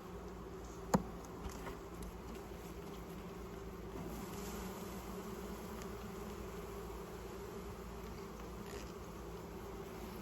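Honey bees buzzing steadily around an open hive, a constant droning hum. A single sharp click about a second in.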